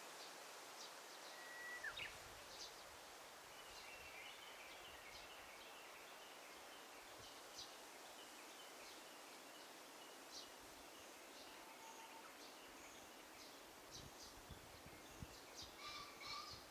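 Faint daytime forest ambience: scattered short bird chirps over a steady hiss, with a run of quick twittering through the first half and a short whistle that drops sharply in pitch about two seconds in. A few soft low thumps come near the end.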